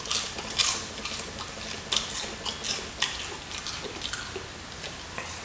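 Close-miked chewing of crispy fried chicken: irregular crackly crunches and bites, several in quick succession with short gaps.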